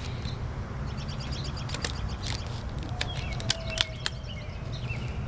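A few sharp snaps of rubber bands being stretched onto a watermelon, over birds chirping and a steady low rumble.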